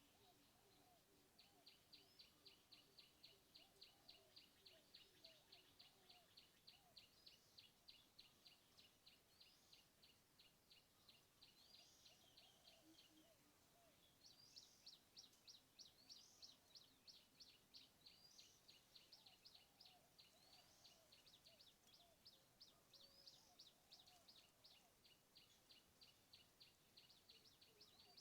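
Faint wildlife calls: a rapid, even chirping, about six a second, in two long runs broken by a short gap near the middle, with higher rising calls over it and faint lower warbling calls.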